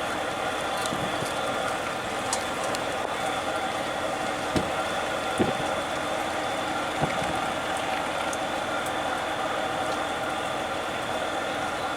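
A motor runs steadily under a hissing wash, and three dull knocks come in the middle.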